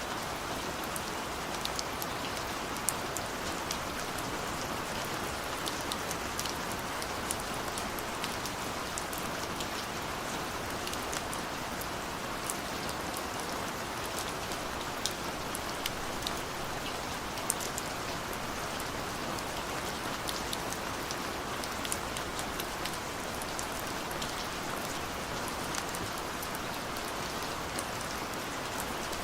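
Steady rain with scattered individual drops ticking sharply against a window pane.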